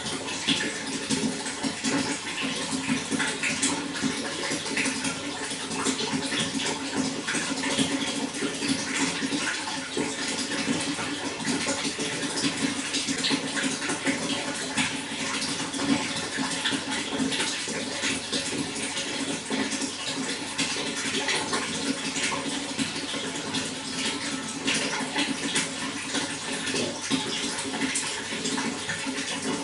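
Running water flowing and splashing steadily, a continuous rush with fine bubbling detail throughout.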